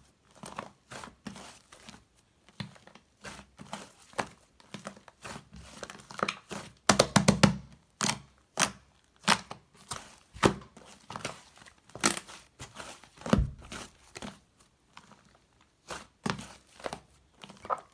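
Crinkling and tearing handling sounds with irregular sharp taps and clicks, and a quick flurry of clicks about seven seconds in.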